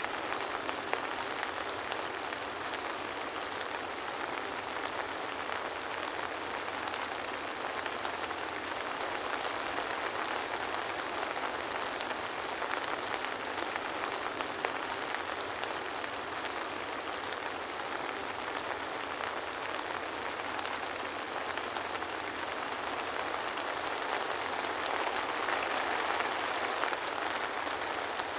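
Steady soft rain falling, an even hiss with many small separate drop taps, swelling slightly near the end; no thunder.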